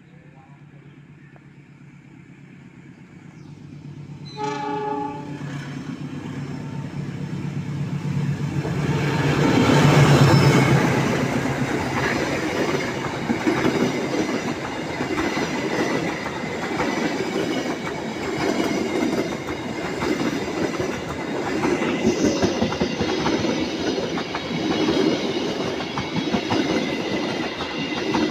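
A diesel-hauled train approaching a level crossing sounds its horn once, about four seconds in. The locomotive passes loudest about ten seconds in, and the carriages follow with a steady, rhythmic clatter of wheels over the rail joints.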